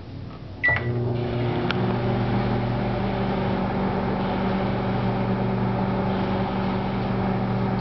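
A short beep, then a microwave oven switches on under a second in and runs with a steady hum.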